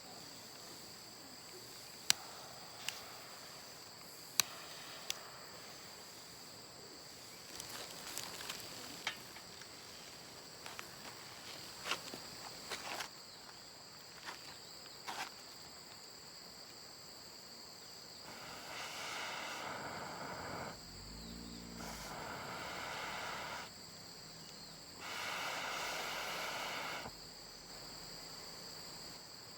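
Crickets chirping steadily, with scattered sharp clicks in the first half. Two louder stretches of rushing noise come in the second half, one of about two seconds and a later one of about two seconds.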